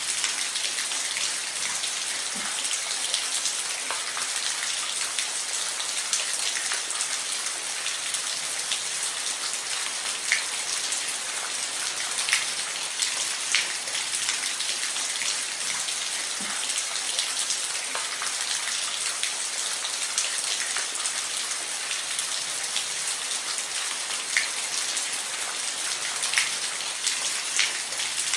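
Steady rain falling on a roof: a continuous hiss with scattered louder drops ticking every second or so.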